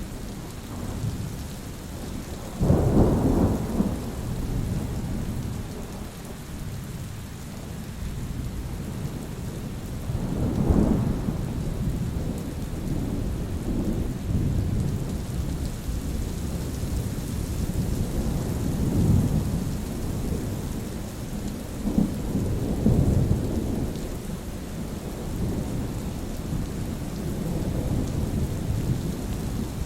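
Steady rain with thunder rumbling: a sudden loud thunderclap about three seconds in, another strong rumble about ten seconds in, and several softer rumbles later.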